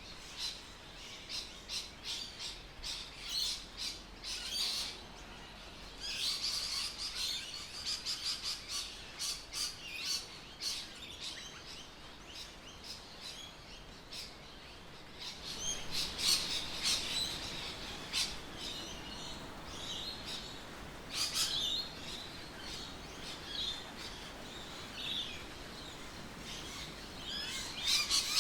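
Birds chirping and calling in bouts of quick, high chirps, with short lulls between the bouts.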